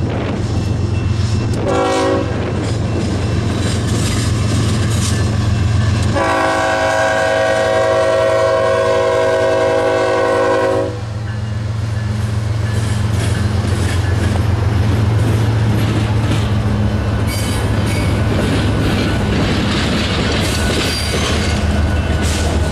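Freight train's diesel locomotives passing close, with a steady low engine drone and wheels clattering over the rail joints. The lead locomotive's multi-chime horn sounds a short blast about two seconds in, then a long blast of about five seconds starting about six seconds in.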